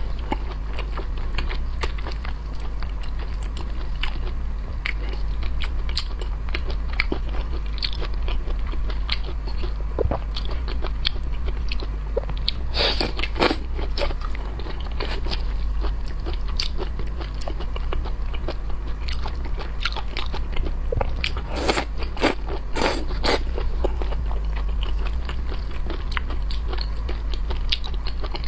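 Close-miked eating of seafood: biting, crunching and chewing with frequent sharp cracks and clicks, heaviest around the middle and again a little past two-thirds of the way through, over a steady low hum.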